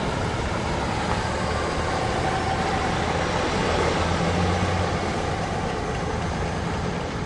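Steady rumble of a freight train's boxcars rolling away, joined by a pickup truck's engine as it drives across the tracks. The truck is loudest about four to five seconds in.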